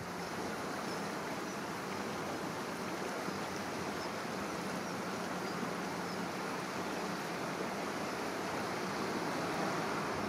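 Steady rush of flowing river water, an even hiss with no distinct splashes.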